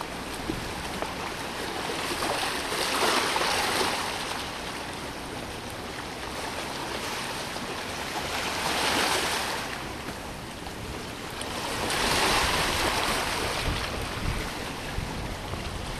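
Waves breaking and washing against a rocky shore, surging three times, with wind on the microphone.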